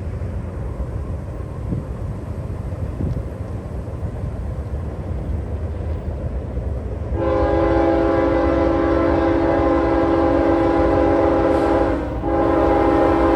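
A train's low rumble, then about seven seconds in a locomotive air horn sounds a long blast of several notes at once, breaks off briefly near the end and sounds again.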